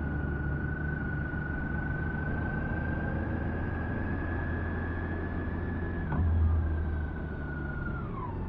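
BMW K1600B's inline six-cylinder engine running as the motorcycle rides along, a steady hum with a thin steady whine over it. About six seconds in there is a click and a short, louder swell of the engine, and near the end the whine drops in pitch as the revs fall.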